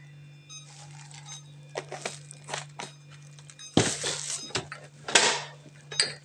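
Containers and packets being handled on refrigerator shelves: short knocks and rustles, loudest about four and five seconds in, over a steady low hum.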